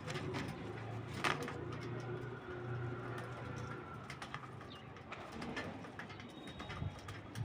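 Faint bird vocalizations over a low steady hum, with a single sharp click just over a second in.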